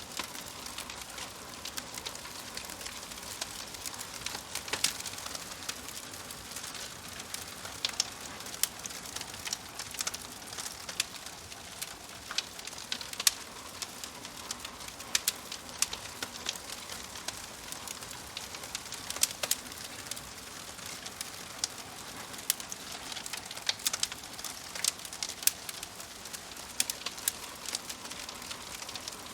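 Wood fire crackling in a fireplace: a steady soft hiss under irregular sharp pops and snaps, several a second, some much louder than the rest.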